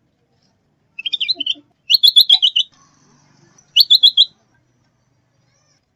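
Bulbul (kutilang zebra / cucak bersisik) calling in three short bursts of quick, high chirping notes: one about a second in, a longer run just after it, and another near four seconds in. This is a lure call used to attract and tutor other birds.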